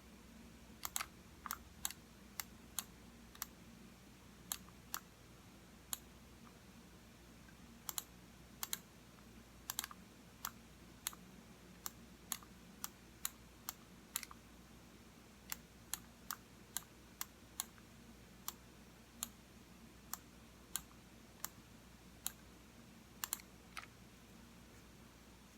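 Computer mouse buttons clicking at an irregular pace, sharp single clicks and quick double clicks, as a mouse is used to work through questions on screen.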